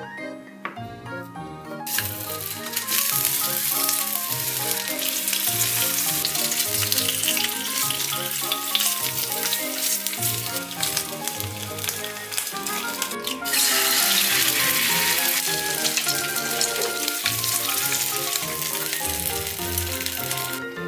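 Slices of canned ham sizzling in hot oil in a frying pan, starting about two seconds in. After a short break about two-thirds of the way through, an egg sizzles as it fries in oil.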